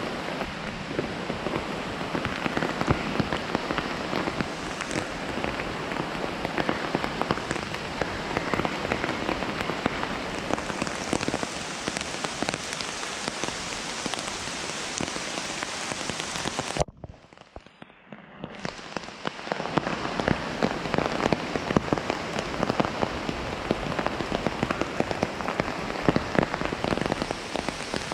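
Heavy rain falling steadily on rainforest foliage, a dense patter of countless drops. About two-thirds of the way through, the sound cuts out suddenly for about a second and a half, then builds back to the same steady rain.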